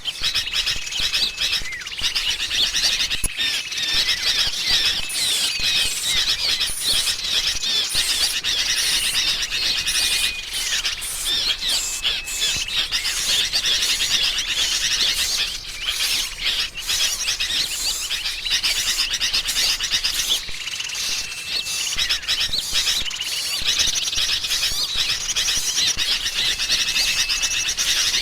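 A bird-trapping lure recording: sooty-headed bulbuls (kutilang) chattering noisily, mixed with the calls of other small birds, in a dense, unbroken chorus of rapid chirps with short level whistles now and then.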